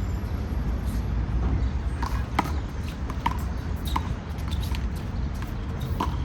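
Handball play: about seven short sharp taps and squeaks scattered over a few seconds, over a steady low rumble of city traffic.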